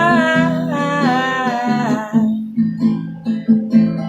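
Fingerpicked acoustic guitar under a long, wavering sung note; the voice stops a little past halfway and the guitar carries on alone with a repeating picked pattern.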